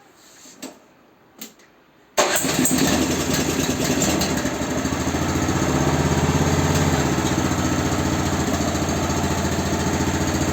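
Honda snowblower's four-stroke engine starting a couple of seconds in after a few faint clicks, catching at once and then running steadily; it is being test-run after a repair.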